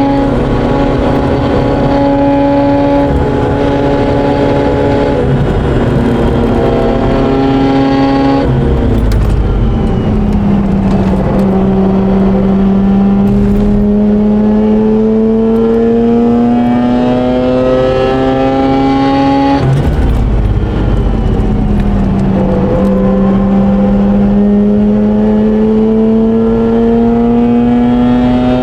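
Mazda RX8's twin-rotor rotary engine running hard under load on track. The revs climb slowly through long pulls and break off sharply twice, about eight and twenty seconds in; each time the pitch drops, then builds again.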